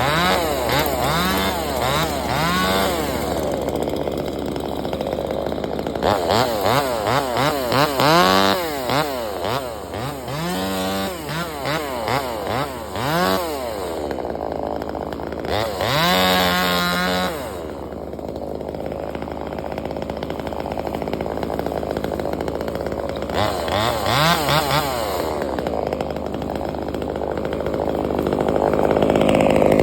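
Chainsaw engine revved up and down in repeated bursts, held at high revs for a second or two about midway, dropping back to a steadier lower note between bursts.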